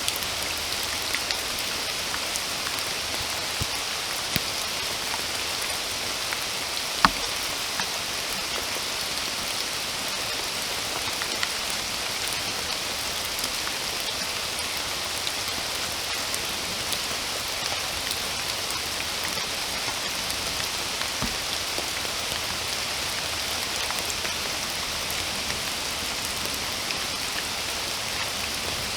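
Steady rain falling, an even hiss with scattered close drops ticking. One drop lands louder about seven seconds in.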